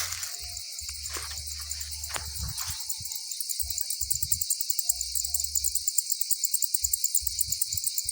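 A chorus of insects chirping, high-pitched and continuous, with a fast pulsing rhythm that grows stronger from about three seconds in. Low rumbles come and go underneath.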